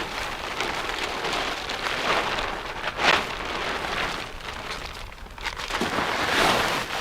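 Wind-driven snow hissing in gusts, a rough noise that swells and fades, loudest about three seconds in and again near the end.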